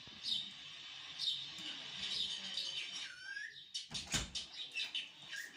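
Pet green parrot making short high chirps and squeaks, with a falling call about three seconds in. A single thump about four seconds in.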